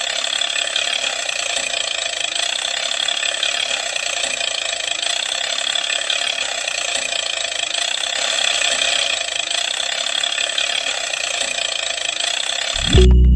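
Small electric motor and gear train of a homemade toy tractor whirring steadily at a constant speed, stopping abruptly near the end.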